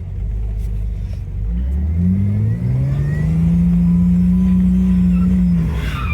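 Jeep engine revving: it climbs about a second and a half in, holds at high revs, then drops off near the end.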